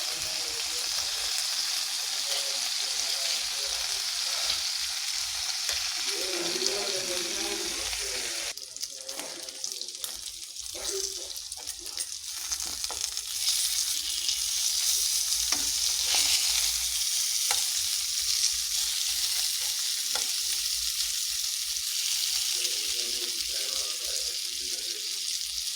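Tandoori chicken pieces sizzling as they fry in hot oil in a pan, a steady crackling hiss. It softens briefly about eight seconds in and comes back stronger a few seconds later.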